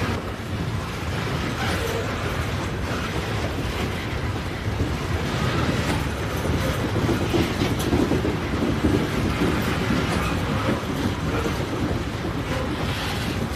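A train rolling along the track: a steady, even rumble of wheels on rails, with no whistle sounding.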